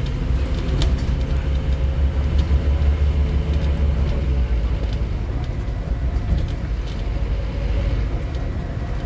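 Scania N230UD OmniCity double-decker bus's 9-litre five-cylinder diesel engine running with a deep drone that eases off about four seconds in, with scattered clicks and rattles.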